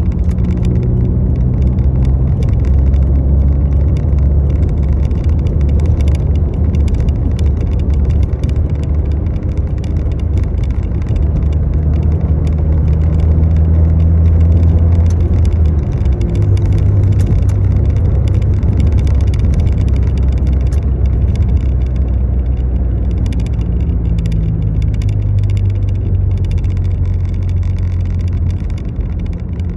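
A motor vehicle's engine running steadily, its low hum shifting in pitch a few times, under a steady rushing noise.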